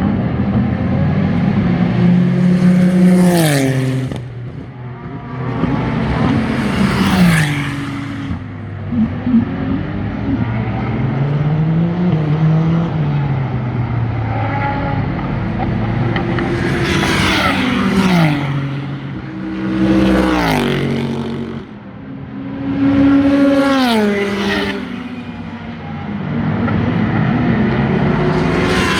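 Super GT race cars running past close by one after another, about six passes, each engine note dropping sharply in pitch as the car goes by. Between passes, engine notes rise and fall as cars accelerate and lift further along the track.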